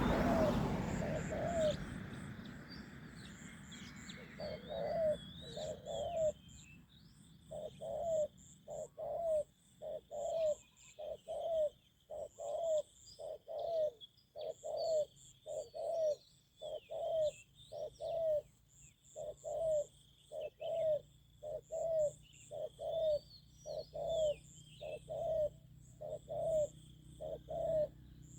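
Spotted dove cooing over and over, low notes in groups of two or three, while small birds chirp faintly. A broad rushing noise, loudest at the very start, fades away over the first two seconds.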